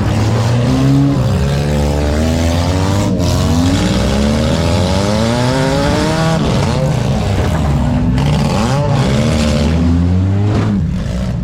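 Several four-cylinder demolition derby cars' engines running hard at once, their pitches rising and falling as the drivers rev up and back off.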